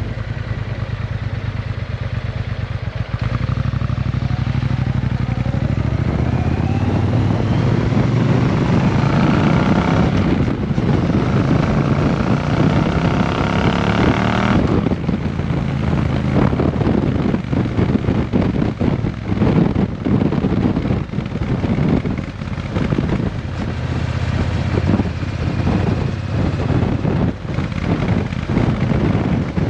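Triumph Bonneville T120 parallel-twin engine running through a Vance and Hines exhaust: steady at first, then revving up with rising pitch for several seconds, dropping off sharply about halfway through, then running unevenly with choppy, crackling throttle changes.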